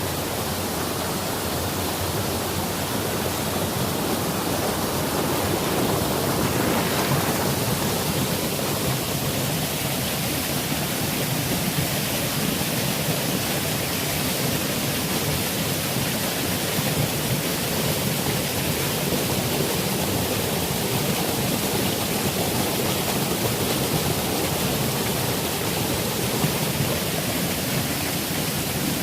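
Steady rushing of a clear mountain river and its small waterfalls, loud and even.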